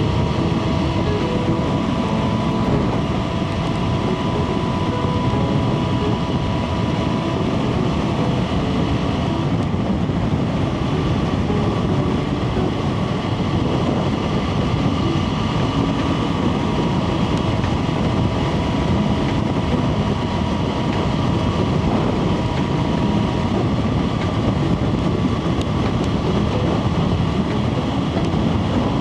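Motorcycle riding at steady speed: constant wind rush and road rumble over the MV Agusta Brutale 675's inline-triple engine breathing through a Termignoni slip-on exhaust.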